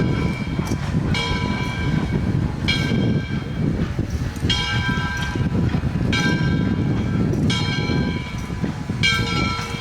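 Locomotive bell ringing steadily, a strike about every one and a half seconds, over the low rumble of a train arriving at the station.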